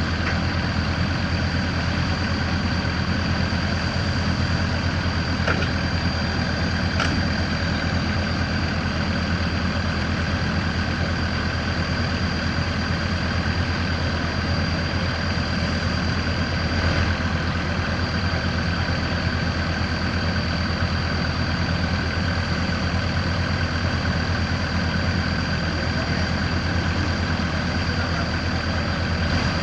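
Diesel engine of a crawler earthmover running steadily at a low, even pace, with a constant high whistle over the low engine hum and a few faint clicks.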